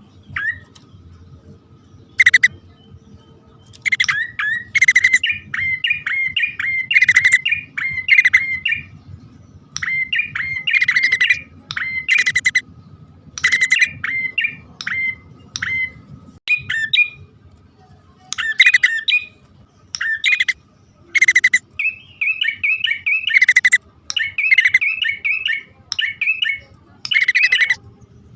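Prinias (prenjak poci), male and female, calling in a recording meant to lure the birds. They give repeated phrases of rapid, sharp, high chirping notes, each a second or so long, with short pauses between.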